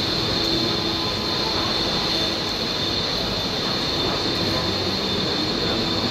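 MTR East Rail Line SP1900 electric train pulling into a platform and slowing to a stop: steady rumble of the passing cars with a high, steady squeal over it.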